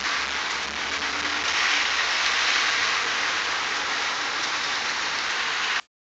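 Steady hiss of rain on a wet city street, cutting off suddenly near the end.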